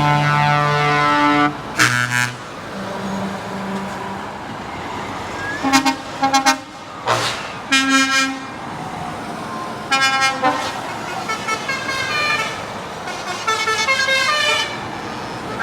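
Truck air horns honking over running engines: a long chord-like blast, then many short toots and quick runs of blasts at several different pitches.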